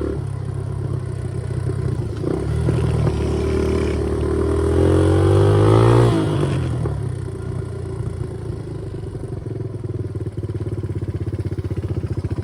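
Small single-cylinder off-road motorcycle engine pulling hard, its pitch rising and growing louder to a peak about six seconds in. It then backs off to a lower, steady running note with a fast, even throb near the end.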